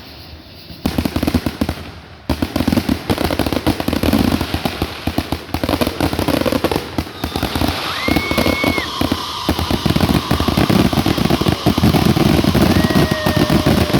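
Aerial fireworks finale: a dense, rapid string of bangs and crackles that thickens into a near-continuous barrage. A short high tone sounds through it about eight seconds in and again near the end.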